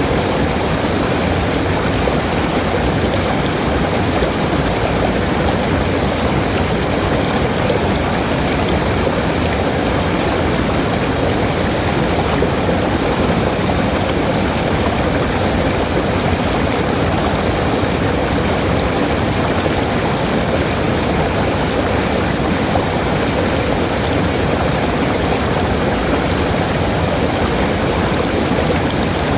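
Waterfall: a steady, loud rush of falling water, unbroken and unchanging.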